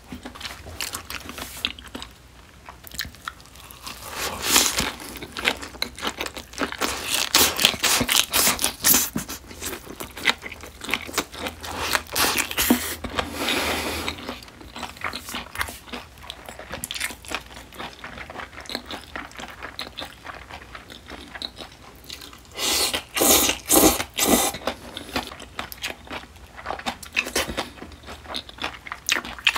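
Close-miked chewing of a perilla-leaf wrap of smoked duck: wet, crunchy mouth sounds with a long stretch of busy chewing from a few seconds in, and another short, loud flurry about three-quarters of the way through.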